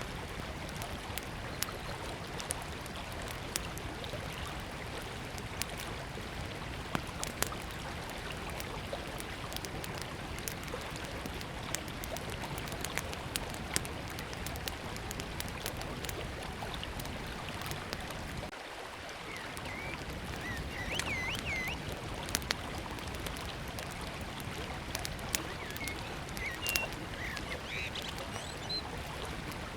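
A river flowing steadily, with a small wood fire crackling in sharp pops throughout and a few bird chirps in the second half.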